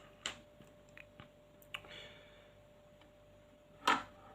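Small plastic and metal parts of an airsoft hop-up unit being handled during disassembly: a few faint clicks and a soft rustle, then one louder tap near the end.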